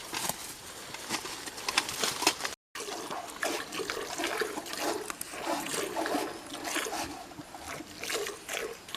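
A cow being milked by hand: milk squirting into a pail in many short streams.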